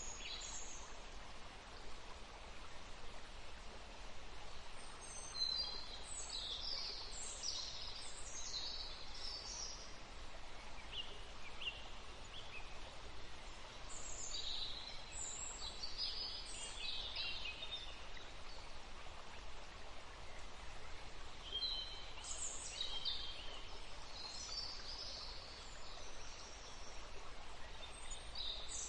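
Forest songbirds singing in three bouts of short, high chirping phrases, over a steady background hiss.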